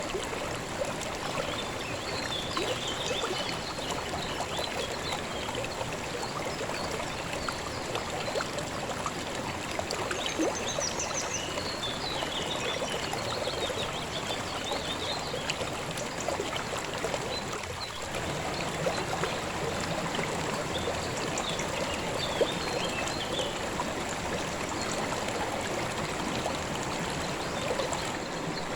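Calm river water flowing steadily, with short bird chirps now and then.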